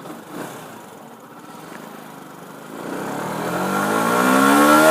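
Yamaha 125 cc single-cylinder motorcycle engine on its stock exhaust, running low at first, then climbing steadily in revs and getting louder over the last two seconds, easing off right at the end. Quite loud for a 125.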